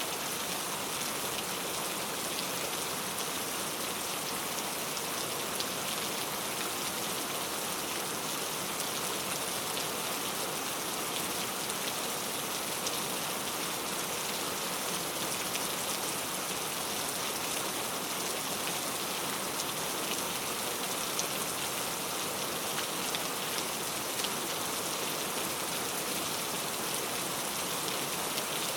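Steady rain falling on a surface, an even hiss dotted with individual drop ticks.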